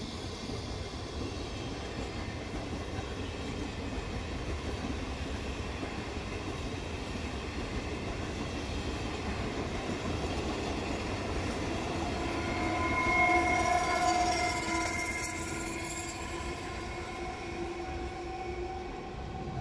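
Regional train of passenger coaches pulling out of the station and rolling past, a steady rumble of wheels on rails. About 12 seconds in, a held tone with several pitches rises, loudest a little later, then fades toward the end.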